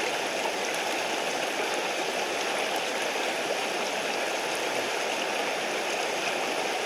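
Mountain stream rushing steadily over rocks, a constant even water noise.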